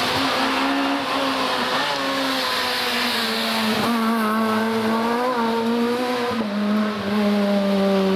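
Rally car engine running hard at high revs, its note sagging slowly in pitch with brief breaks about four and six and a half seconds in.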